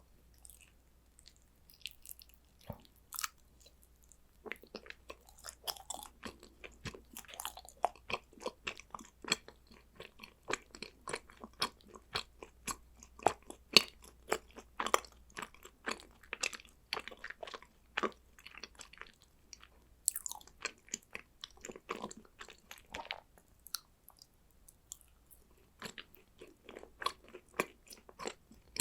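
Close-up chewing and crunching of chocolate snacks: dense, irregular crisp crackles of bites and chews, with a short lull late on.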